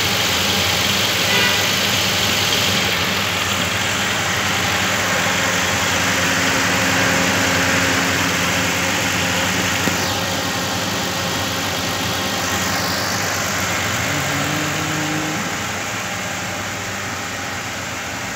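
Mitsubishi Pajero engine idling steadily with the bonnet open, warming up after a thermostat replacement to check that the new thermostat opens and the coolant circulates, so that it no longer overheats.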